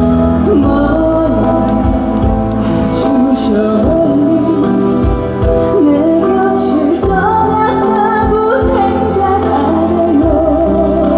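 A slow, sad trot ballad performed live: a female voice singing a wavering melody with vibrato over amplified accompaniment.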